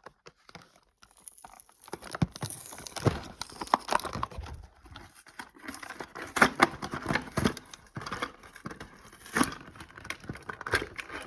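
A toy's cardboard box being opened by hand: packaging tearing and crinkling, with irregular rustles and small taps.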